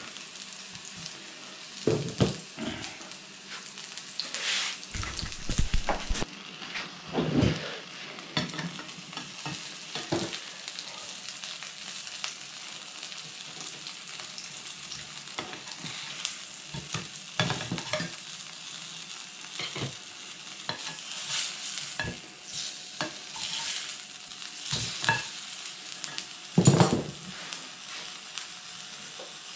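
Bubble and squeak and a halved tomato sizzling steadily in a non-stick frying pan on a portable gas camping stove. Metal tongs clack against the pan now and then, loudest near the end.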